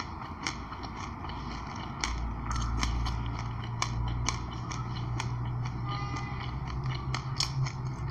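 Close-miked chewing of passion fruit pulp and sesame seeds, heard as irregular sharp crunches and crackles of the seeds breaking between the teeth, over a steady low hum.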